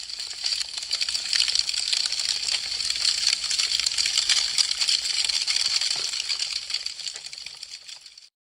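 Wood fire crackling: a dense stream of small sharp pops and snaps over a steady hiss. It swells up over the first second and fades away shortly before the end.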